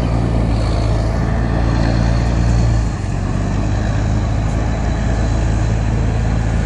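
Boat engine running steadily with a deep drone, its note dropping slightly about three seconds in.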